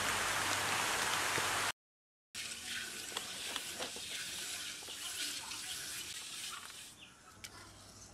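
Heavy rain falling steadily, cut off abruptly after about a second and a half. After a brief silence, lighter rain with scattered drips from wet leaves, which grows quieter about seven seconds in, where a single sharp click sounds.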